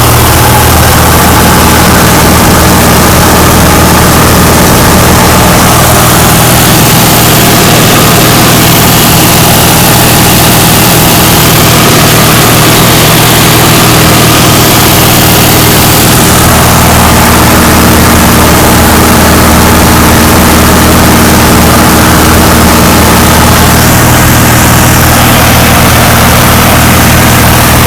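Cessna 172's piston engine and propeller running steadily in flight, a loud, even drone.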